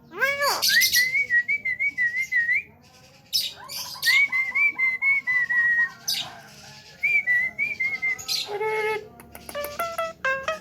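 Javan myna whistling and chattering: arched whistled notes, runs of quavering whistles, harsh squawks and clicks. Near the end come quick repeated rising notes.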